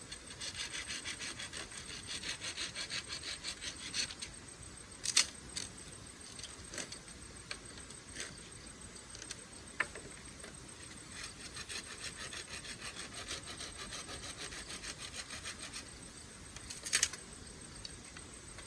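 Rapid rhythmic rasping strokes of a hand tool worked back and forth, in two runs of several seconds each. Between the runs come a few sharp knocks, the loudest about five seconds in and again near the end.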